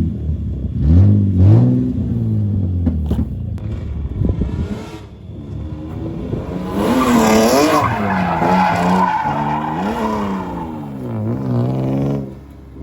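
A drift car sliding through a turn, its engine revs rising and falling with repeated throttle stabs while the tyres squeal. It is loudest about seven seconds in, and the engine drops away just before the end.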